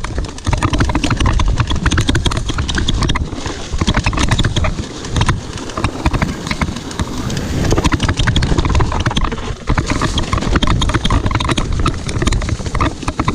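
Full-suspension mountain bike ridden fast over rough trail: a constant rattle of knocks and clatter from tyres, chain and frame hitting rocks and roots, over a loud low rumble of wind and ground noise.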